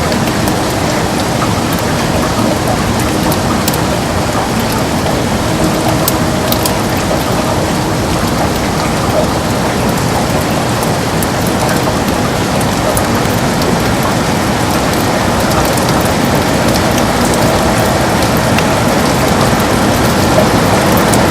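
Heavy rain falling steadily on a window: a dense, even hiss with scattered sharper ticks of single drops.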